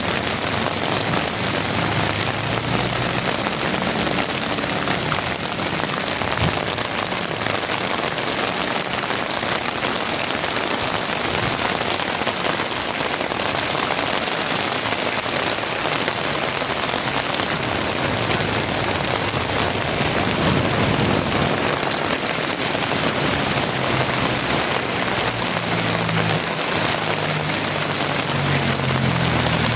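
Heavy rain falling steadily, a dense, even hiss with no let-up. A low hum sounds under it at the start and again near the end.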